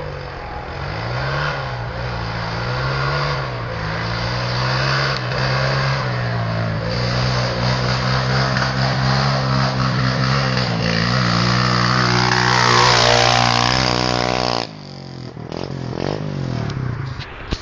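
Pit bike engine running under throttle, its pitch rising and falling, then climbing to a high rev before the sound drops off abruptly about fifteen seconds in, leaving a quieter engine sound.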